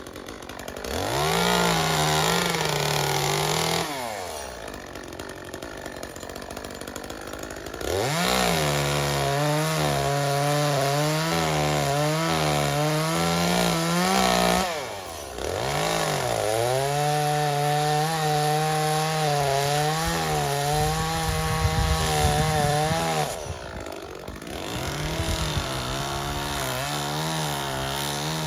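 Chainsaw cutting into dead cherry wood, revving to full speed and dropping back to idle between cuts. It runs at full throttle about a second in, idles for a few seconds, then makes two long full-speed runs before idling briefly and picking up again near the end.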